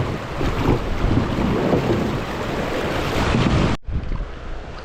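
Steady rushing noise of moving creek water mixed with wind on the action camera's microphone. It breaks off sharply about four seconds in and comes back quieter.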